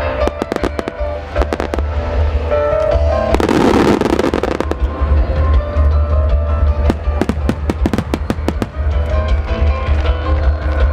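Fireworks bursting in quick, irregular bangs over music, with a dense crackling burst about three seconds in.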